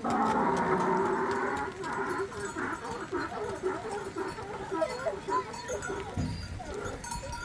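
A flock of sheep bleating: one loud, long bleat at the start, then many shorter overlapping calls. A low bump about six seconds in.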